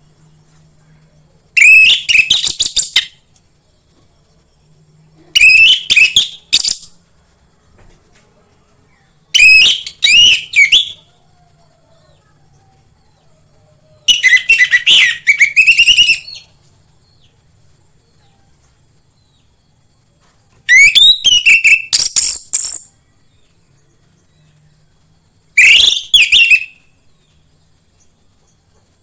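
Orange-headed thrush (anis merah) singing: six short phrases of rapid, varied whistled notes, each one to two seconds long, spaced about four seconds apart.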